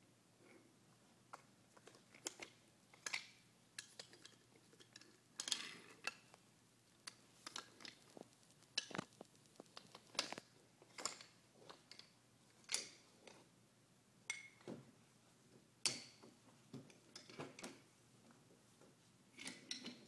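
Toy trains and track pieces clacking and knocking together as they are handled and set down, in irregular sharp clicks, some loud.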